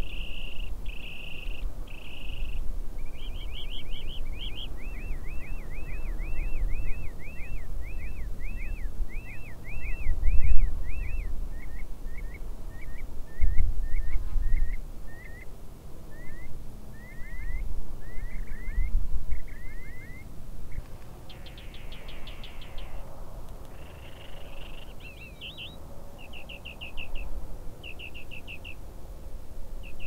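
Songbirds singing: long runs of quick, repeated chirping notes, over a low rumble that swells loudest about ten and thirteen seconds in.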